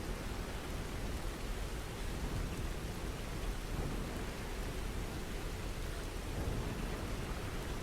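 Steady rain: an even, unbroken hiss with a deep low rumble beneath it and no separate thunderclaps.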